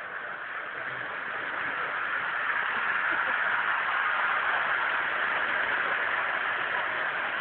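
G-scale model train, locomotive and wagons, running on garden railway track with a steady rolling hiss of motor, gears and wheels on rail. It grows louder as it passes close, peaking midway, then fades a little.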